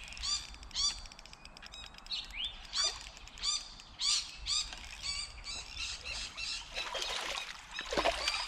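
A bird calls over and over in short, evenly spaced, rise-and-fall notes. Near the end, a hooked redfin perch thrashes and splashes at the surface as it is drawn in to the bank.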